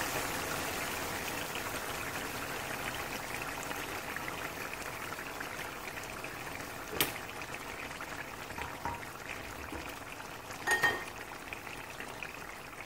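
Oily chicken karahi gravy sizzling and crackling in a wok, slowly dying down with the stove just turned off. A sharp click about halfway through and a brief clink near the end.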